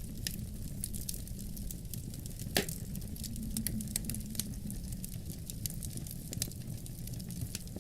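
Wood fire crackling in a fireplace, with irregular sharp snaps and one louder pop about two and a half seconds in, over a steady low rumble.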